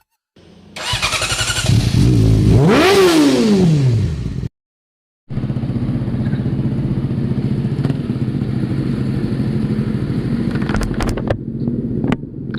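Motorcycle engine revved, its pitch rising then falling back, followed after a short break by the engine running steadily.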